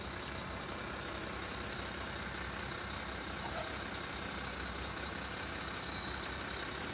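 A truck's engine running steadily, a low hum under an even hiss with no change in pitch.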